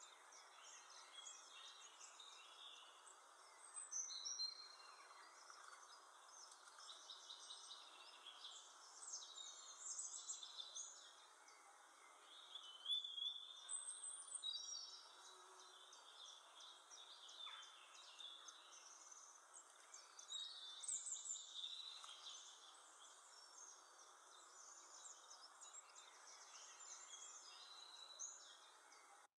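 Faint garden ambience: several small birds chirping and calling in short, high phrases that come and go, over a steady background hiss.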